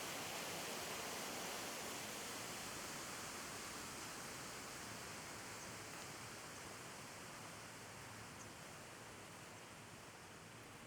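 Steady, even wash of sea and breeze noise from waves and wind on the shore, slowly fading over the seconds.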